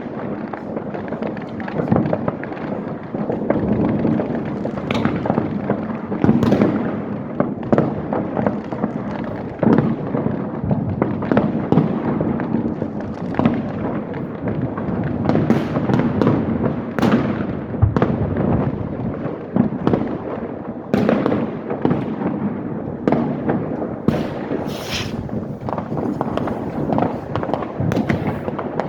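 Many fireworks and firecrackers going off at once: a continuous din of overlapping bangs and crackles, with sharper, louder reports every second or two.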